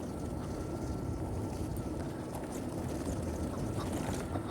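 A Zero SR/F electric motorcycle riding on a dirt trail: a steady rumble of tyres and wind, with a faint thin whine above it and scattered small clicks.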